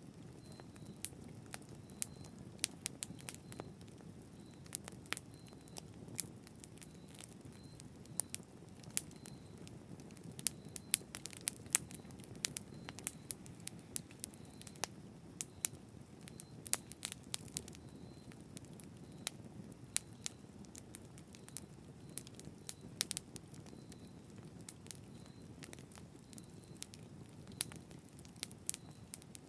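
Campfire burning steadily with a low rumble and frequent sharp, irregular crackles and pops.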